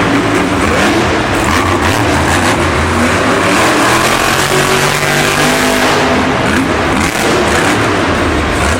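Monster truck engine running hard and revving, its pitch rising and falling.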